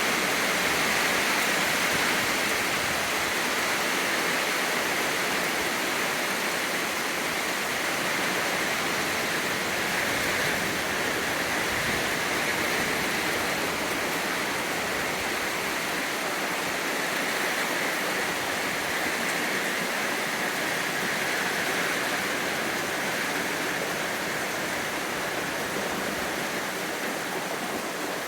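Steady rain falling, a dense even hiss without separate drops standing out.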